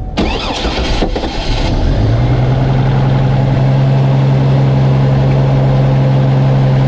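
GMC Envoy engine cranking on the starter for about two seconds before it catches, then settling into a steady idle. The longer-than-usual crank is what an engine does right after its mass airflow sensor and throttle body have been cleaned.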